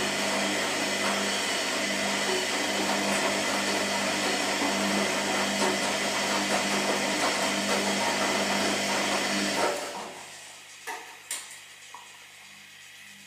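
Washing machine running: a steady motor hum under a loud rushing noise, which cuts off about ten seconds in, followed by a couple of short clicks.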